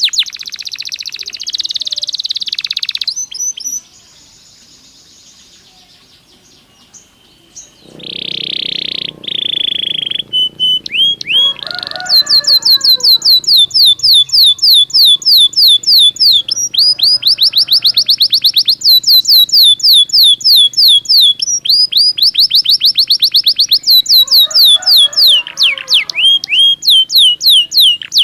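Belgian canary singing: fast trills of repeated sharp falling notes, with a buzzy roll near the start, a short quieter pause, a held whistled note and a few lower warbled phrases.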